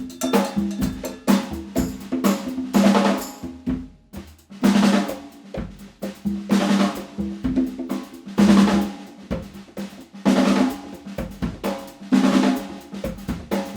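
Drum kit played in phrases of hits and fills, with short breaks between them.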